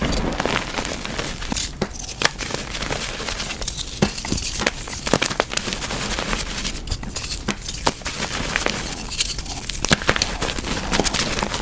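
Reformed, dyed gym chalk being crushed: a dense run of crisp crunches and sharp cracks over a steady crumbling crackle.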